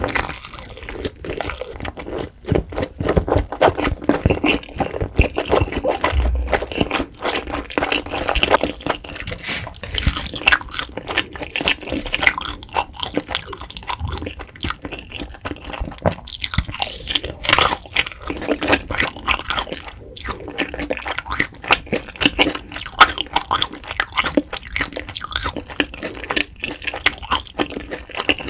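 Close-miked chewing of a mouthful of spicy fire-noodle wrap: a dense, steady run of wet mouth clicks and crackles as the noodles are chewed.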